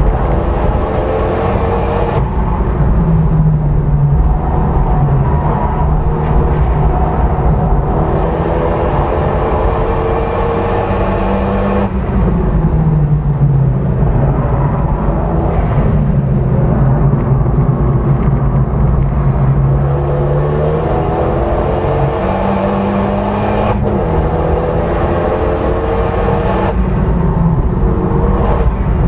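Renault Mégane RS's turbocharged four-cylinder engine at full throttle, heard from inside the cabin: its pitch climbs through each gear and drops sharply at the shifts and lifts, several times over, with constant tyre and wind rush underneath.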